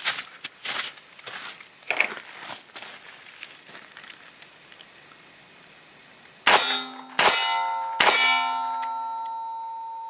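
Light handling clicks, then three sharp metallic clangs in quick succession, each leaving a bell-like ring that fades over a couple of seconds.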